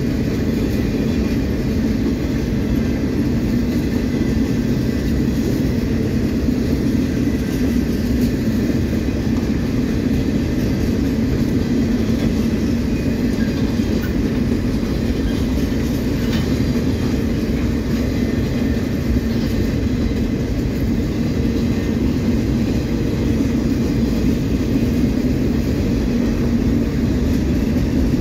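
Union Pacific freight train's boxcars rolling past close by: the steady, unbroken noise of steel wheels running on the rails.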